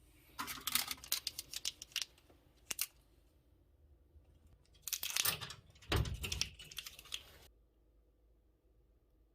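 Parcel packing: packaging handled by hand, with rapid crinkling, rustling and clicking in two bursts, the first about half a second in and the second about five seconds in.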